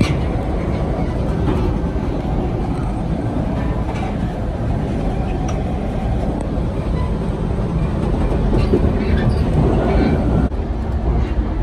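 Steady loud rumble of a Coaster commuter train under way, heard from inside the car at its end door, right behind the Siemens Charger diesel locomotive. The noise eases slightly about ten seconds in.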